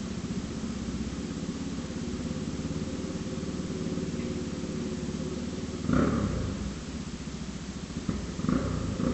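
Motorcycle engine running with a loud exhaust, with two brief bursts of throttle, about six seconds in and again near the end.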